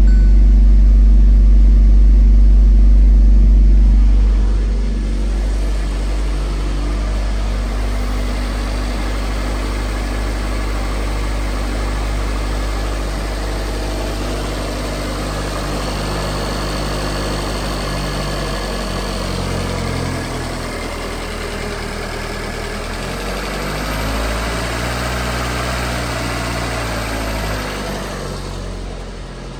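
2021 Hyundai Tucson's 2.0-litre four-cylinder engine running at idle. A heavy low rumble in the first few seconds settles to a steady idle, and engine speed rises and falls briefly near the end.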